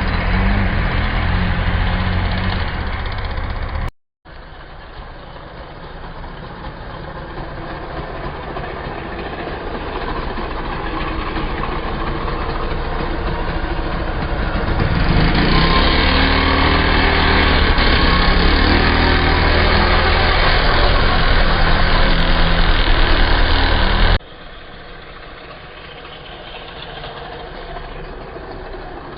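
Youth motocross dirt bike engine running, loud at first, with a momentary gap about four seconds in. It then builds steadily and holds loud before dropping abruptly to a quieter level near the end.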